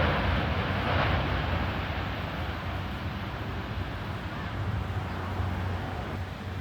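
Jet airliner engine noise: a steady rushing sound over a low hum that slowly fades.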